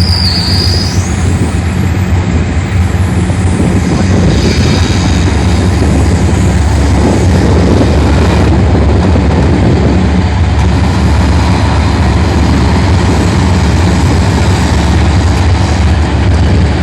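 A large engine running steadily and loudly close by, a low, even rumble with no clear change in pitch.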